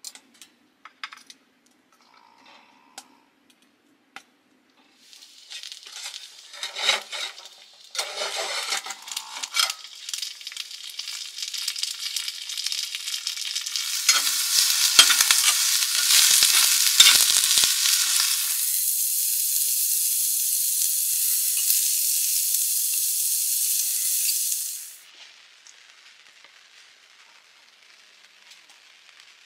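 A few light clicks of metal tongs against a cast iron skillet, then green peppers sizzling as they fry in hot oil in the skillet. The sizzle grows louder over several seconds and cuts off suddenly near the end.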